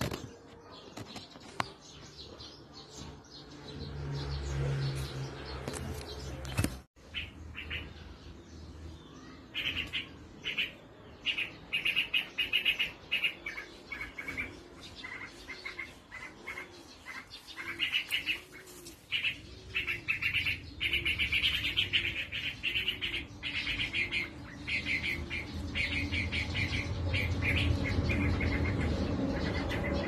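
Parent birds calling noisily near a nest of nestlings: runs of sharp, rapid chirps that start about a third of the way in and come and go, with a lower call repeating about once a second through the middle stretch.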